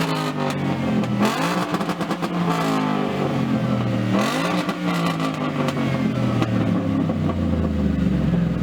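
Car engine revved through its exhaust: two quick blips of the throttle about three seconds apart, each climbing fast and sinking slowly back toward idle.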